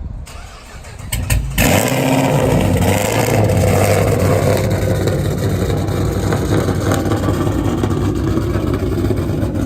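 A cammed car engine fires up about a second and a half in, after a few short clicks, then runs on loudly at a steady idle.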